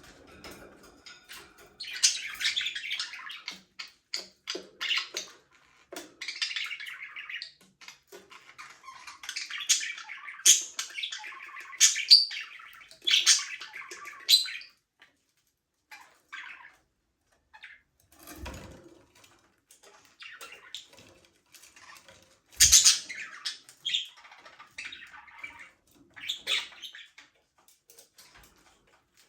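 A flock of budgerigars chirping and chattering, dense in the first half and then in sparser calls. Two brief low thumps come in the second half, the louder one with the loudest chirp about two-thirds through.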